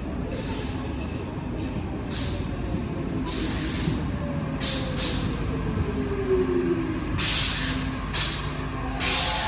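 Stockholm Metro train running on the rails with a steady low rumble. Its motor whine falls steadily in pitch from about halfway in, as the train slows. Short bursts of hiss come several times, the strongest near the end.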